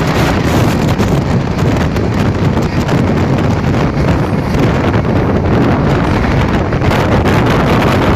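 Wind buffeting the microphone over the loud, steady rumble of a moving passenger train.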